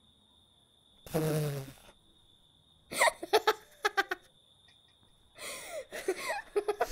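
A man's voice laughing: a breathy snort about a second in, then choppy bursts of chuckling, building again into laughter near the end. Crickets chirr steadily behind it until about five seconds in.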